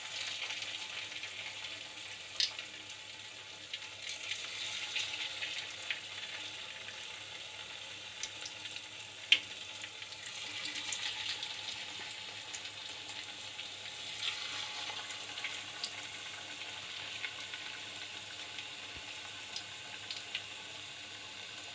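Chicken pakoda batter deep-frying in hot oil: a steady sizzle with scattered sharp pops, the loudest about nine seconds in.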